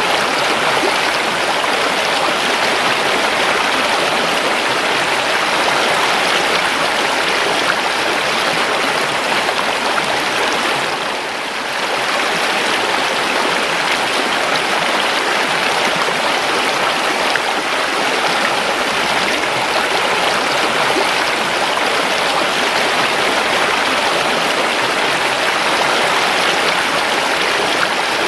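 River water flowing in a steady, dense rush, with a brief dip in level about eleven seconds in.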